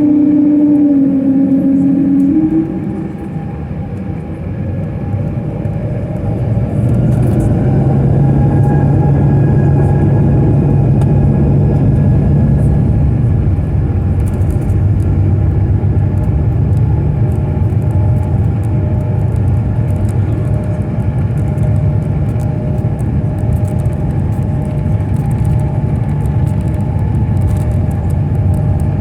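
Jet airliner engines and rumble heard from inside the cabin: the engine tone drops away about two seconds in, then the engines come up to a loud, steady rumble from about seven seconds in, as on the takeoff run.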